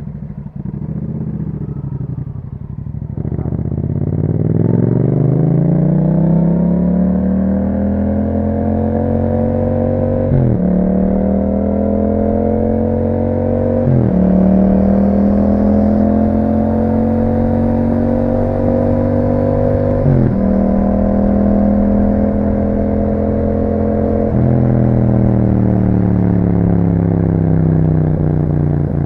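Yamaha MT-07's parallel-twin engine through an Akrapovic exhaust, pulling away and accelerating through the gears. The pitch climbs steadily and drops sharply with each of four upshifts, then eases slightly lower near the end.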